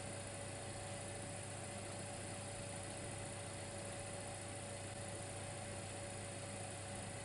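Dimplex electric fireplace running, a faint steady hum with one constant whine over a hiss.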